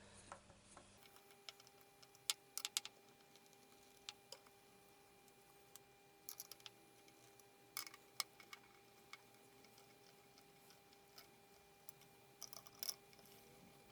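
Faint, scattered clicks and taps of a screwdriver tightening screws, coming in small clusters a few seconds apart, over a faint steady hum.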